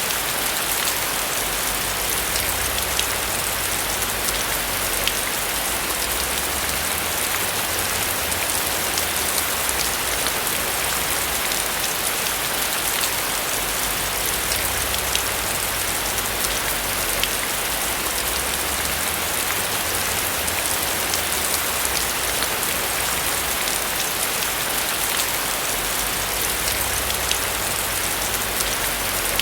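Steady rain falling on a roof, an even hiss with scattered individual drops ticking.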